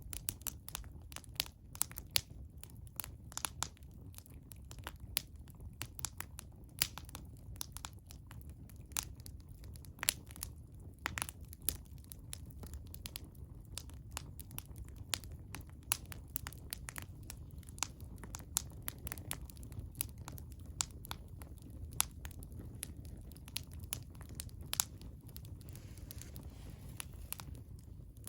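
Wood bonfire crackling: frequent, irregular sharp pops and snaps over a low, steady rumble.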